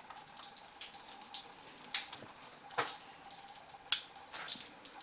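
Scattered, irregular sharp clicks and crackles, the loudest a single sharp click about four seconds in, over a faint steady hum.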